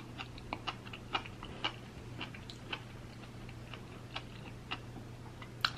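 Close-miked chewing of soft food: quiet, irregular mouth clicks and smacks, about two a second.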